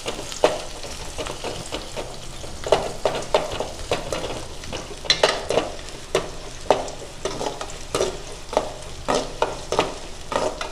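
Chopped small onions, garlic and curry leaves sizzling in hot oil in a metal kadai while a metal spoon stirs them, scraping and knocking against the pan many times at an uneven pace.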